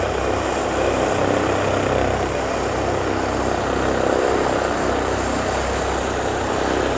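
Helicopter turbine and rotor running loud and steady close by, a continuous rushing roar with a fast low pulsing from the blades.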